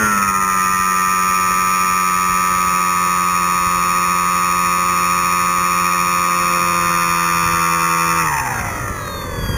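Storm Chaser RC plane's electric motor and propeller whining steadily, heard from an onboard camera; the pitch drops slightly at the start, then about eight seconds in the throttle is cut and the whine glides down and fades.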